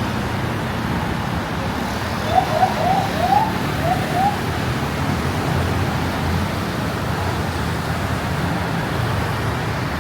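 Steady city road traffic noise, with about six short rising chirps in quick succession a couple of seconds in.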